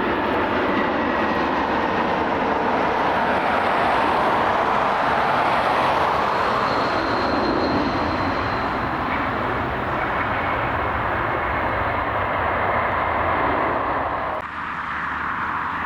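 Airliner engines roaring steadily, with a faint high whine over the roar. Near the end the deeper part of the roar drops away suddenly.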